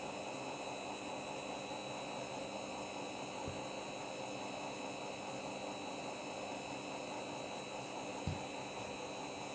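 Candy washing machine in an intermediate spin, its motor running at a steady speed with a constant hum and whine. Two faint knocks come from the drum, about three and a half seconds in and again near the end.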